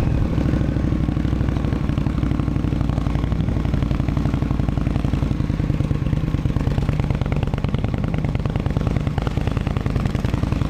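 Indian Scout's V-twin engine running steadily, its exhaust firing in rapid, even pulses.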